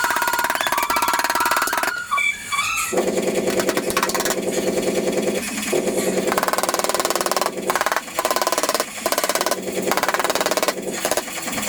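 A pneumatic or power tool hammering rapidly on car body sheet metal, a fast steady rattle that breaks off briefly about two seconds in and again for moments near the end.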